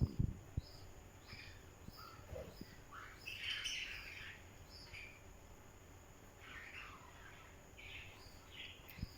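Parrot chirping and giving short squawky calls, the longest about three seconds in, over a faint high chirp that repeats about twice a second. A few thumps at the start and one near the end.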